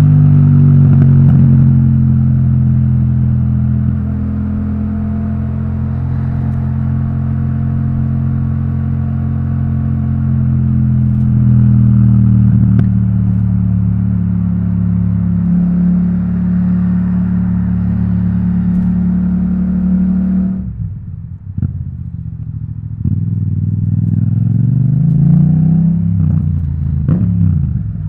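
Yamaha MT-07's parallel-twin engine through an Akrapovic titanium exhaust, heard from the rider's position at a steady cruising note. About twenty seconds in the throttle closes and the sound drops away. The note then rises and falls as the bike accelerates and eases off again.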